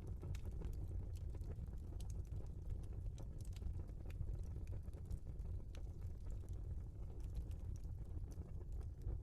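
Wood fire burning in a fireplace: a steady low rumble with scattered small crackles and pops from the burning logs.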